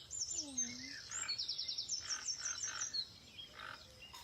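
Birds chirping and calling, with rapid high-pitched trills, short chirps and a few sliding calls.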